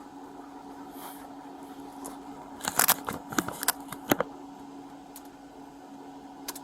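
A steady low electrical hum, with a quick run of sharp clicks and rustles about three to four seconds in and one more click near the end, like equipment or gear being handled.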